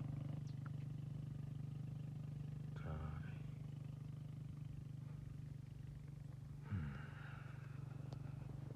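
Small motorcycle engine running at a steady low speed, a constant pulsing rumble, with two brief voice-like calls about three and seven seconds in.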